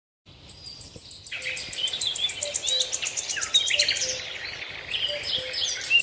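Birds chirping and calling in quick, sliding notes over a fast, even, high-pitched pulsing trill. The sound cuts in abruptly just after the start, and the bird calls join about a second and a half in.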